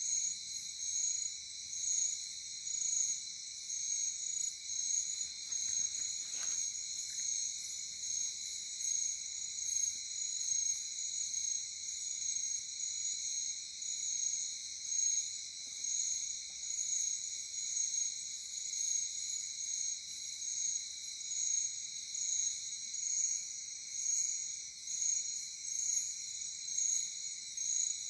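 A night chorus of insects such as crickets: a steady, high-pitched trilling with several voices layered, swelling about once a second. A faint short sound comes about six seconds in.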